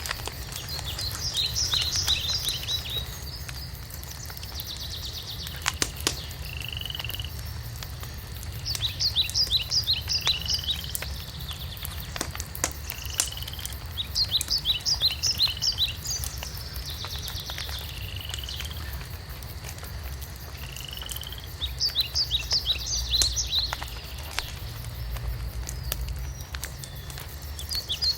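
Songbirds singing: phrases of rapid high notes about a second long, recurring every few seconds, answered by short slurred whistles, over a low steady rumble with a few sharp pops from a crackling fireplace.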